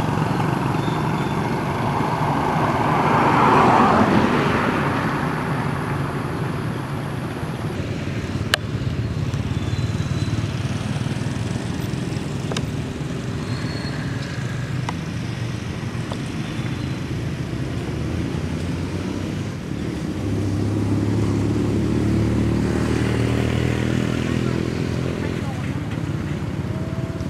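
Road traffic: a vehicle passes, loudest about four seconds in, and a motor vehicle's engine runs steadily from about twenty seconds in, with voices in the background.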